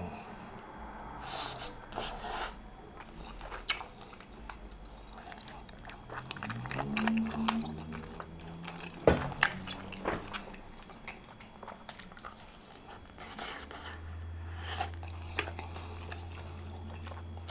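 Close-miked chewing and biting on a sauce-dipped rotisserie chicken leg, with wet mouth smacks and sharp clicks scattered through. A short hum from the eater comes about seven seconds in.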